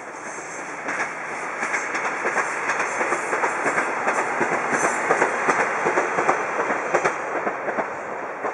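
Two-car Akita Nairiku Jūkan Railway diesel railcar passing, its wheels clicking over the rail joints. The sound swells to a peak mid-way and eases off near the end, with wind on the microphone.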